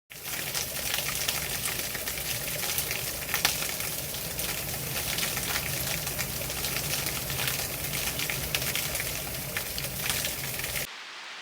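Running water splashing and gurgling: a dense, crackly spatter of falling water that stops abruptly near the end.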